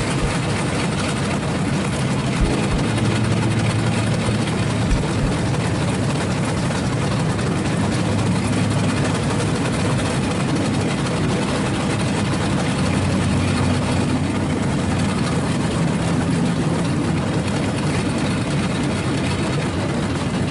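Vehicle engine running steadily with a low hum and a broad rumble, with two short knocks a few seconds in.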